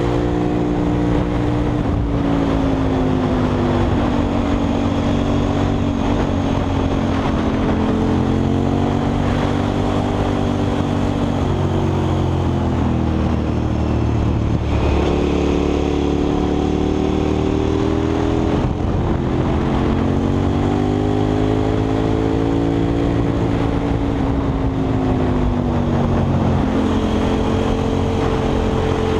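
KTM 990 SMR's V-twin engine through a Leo Vince aftermarket exhaust, ridden hard: its pitch climbs and falls again and again as the bike accelerates, shifts and slows through the bends, over a steady rush of wind.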